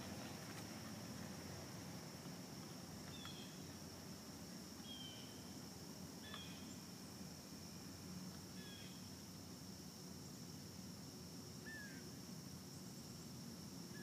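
Faint outdoor ambience with about five short, faint bird chirps scattered through it, over a steady thin high tone.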